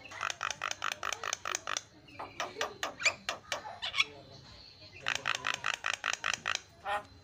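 Javan myna calling: a fast run of short, harsh repeated notes, then a stretch of varied chattering notes, then a second fast run.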